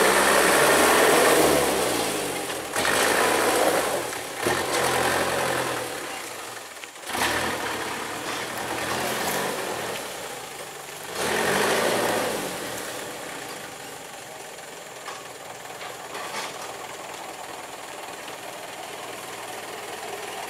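Truck engine running and revving, with the pitch sweeping up and down. It is loudest in the first second or so, swells again twice, then settles lower and steadier.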